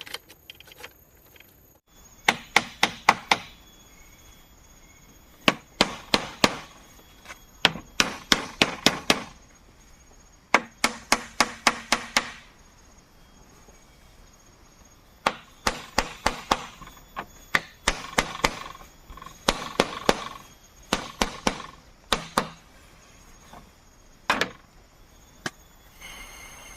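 Bamboo being chopped: quick runs of sharp strikes, several a second, coming in about nine bursts separated by short pauses.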